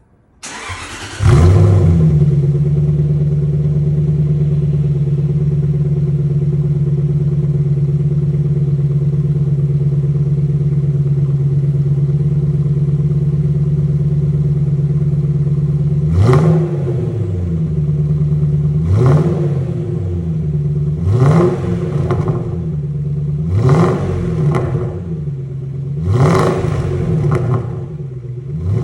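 Jaguar S-Type's supercharged V8 with a tuned aftermarket exhaust starting up with a loud flare about a second in, then idling steadily. Near the end it is revved five times in quick throttle blips, each rising and falling.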